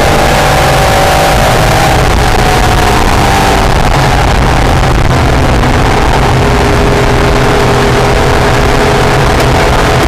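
NSX's V6 engine running hard at track speed, its pitch easing down over the first few seconds and then holding steady, under a loud steady rush of wind and road noise.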